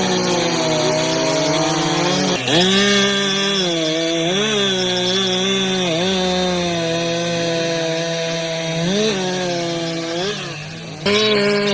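Chainsaw running at high revs, its pitch dipping briefly again and again as the chain bogs down in the wood. The sound changes abruptly about two and a half seconds in and again near the end.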